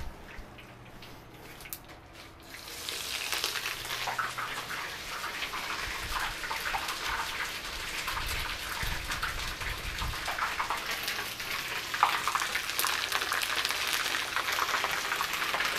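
Pork-rind-crusted chicken pieces frying in hot oil at about 350 °F. The sizzling and crackling starts about two and a half seconds in, as they go into the pan, and carries on steadily.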